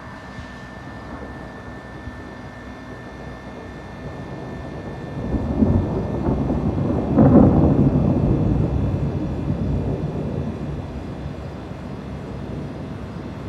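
Thunder: a rolling peal that swells about five seconds in, cracks loudest a couple of seconds later, then rumbles slowly away over a steady background noise.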